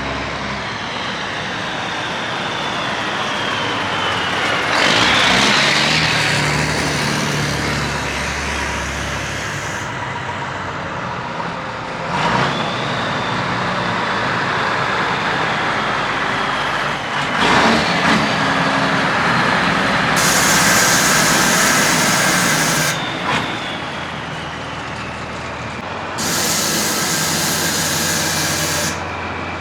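Old Mack diesel truck running and pulling, its engine note rising and falling as it works through the gears. In the second half come two hisses of about three seconds each.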